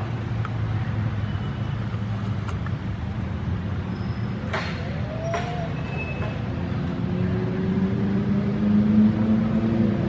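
A low, steady motor drone that rises in pitch and grows louder near the end, with a brief faint squeal about five seconds in.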